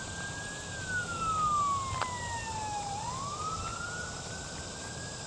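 Emergency-vehicle siren on a slow wail, its single tone gliding up and falling back down about once every four to five seconds.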